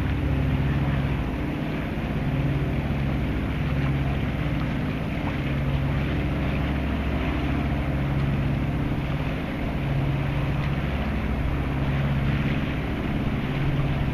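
Tayana 55 sailboat's inboard diesel engine running steadily, its low hum swelling and fading slowly, with wind and water noise over it.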